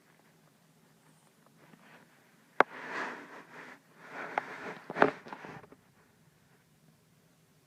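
Flat-faced Persian cat breathing noisily through its short nose: a sharp snort about two and a half seconds in with a second of wheezy breath after it, then another run of snorts and breaths a little past the middle. The noise comes from the cramped nasal passages typical of a peke-faced cat.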